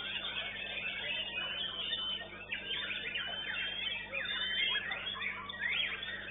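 A white-rumped shama singing among many other caged songbirds, heard as a dense tangle of overlapping whistles, quick rising and falling sweeps and short trills.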